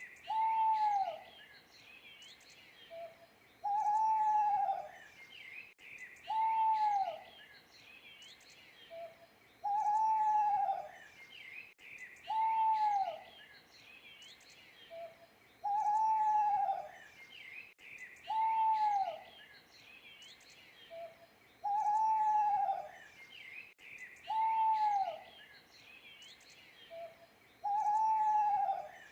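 An owl hooting: one drawn-out hoot about every three seconds, each falling in pitch at its end, with a short soft note between some hoots. Small birds chirp faintly in the background.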